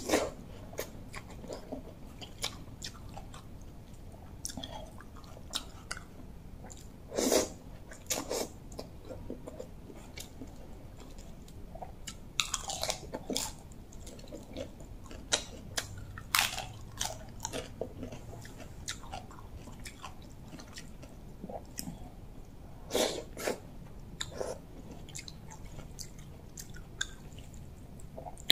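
Close-up eating sounds: a person chewing and biting mouthfuls of spicy rice-noodle salad and raw cabbage, with irregular short crunches and mouth sounds.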